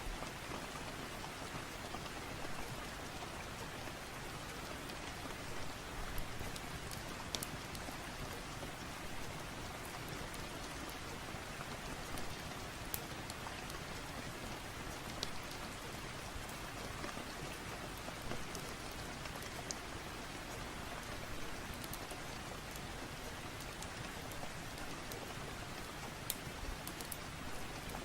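Steady rain falling, an even hiss of drops with a few scattered sharp clicks.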